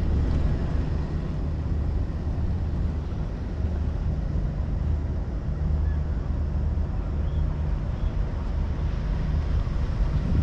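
Boat's engine running steadily, a low rumble with wind noise on the microphone.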